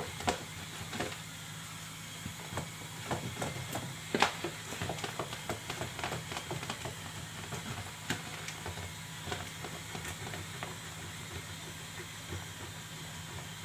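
A bar of hand soap being grated on a grater: a run of short, irregular scraping strokes over a steady hiss, thinning out near the end.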